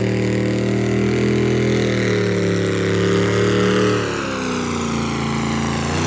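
Engine running at high revs with a steady pitch, then easing off about four seconds in so the pitch falls, and climbing again near the end.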